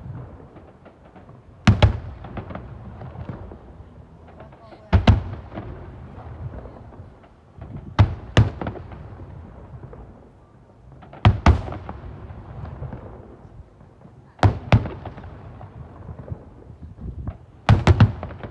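Aerial firework shells bursting with loud booms about every three seconds, often two in quick succession. Each boom is followed by a rumbling echo and scattered crackle.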